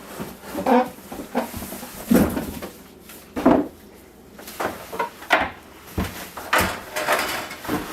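Cardboard box and packing being handled as a coffee maker is unpacked: an irregular run of knocks, scrapes and rustles, about a dozen separate handling noises with short pauses between them.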